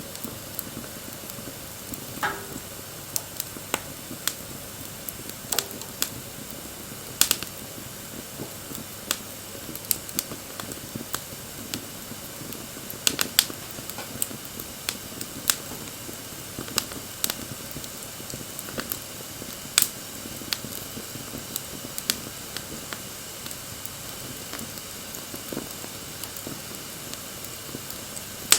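Wood fire burning: a steady soft hiss with sharp crackles and pops at irregular intervals, roughly one every second or so.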